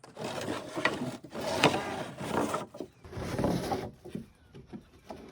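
Wooden boards being handled, rubbing and scraping against each other in three stretches of about a second each.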